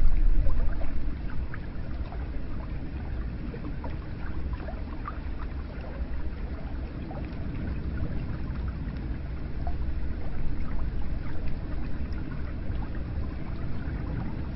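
Hot spring water pouring steadily into a bath: a low rushing wash with scattered small drips and splashes, a little louder in the first second.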